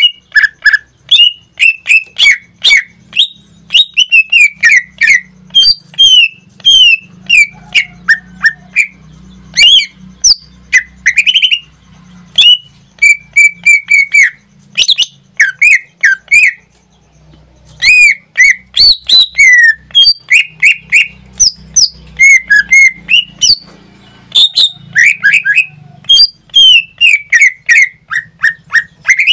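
A pet cucak ijo (green leafbird) in full song: a rapid, unbroken string of loud clear whistles and sharp squeaky chirps, many sliding quickly up or down in pitch, with one brief pause about halfway through. A faint low hum runs underneath.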